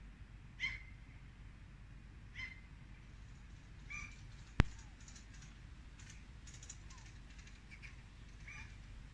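Short harsh bird calls, four of them a second or two apart, with a single sharp click about halfway through and a low steady rumble underneath.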